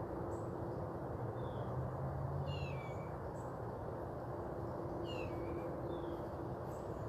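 Outdoor ambience: a steady hiss with scattered short, falling bird chirps, several bunched together twice, and faint low steady tones underneath.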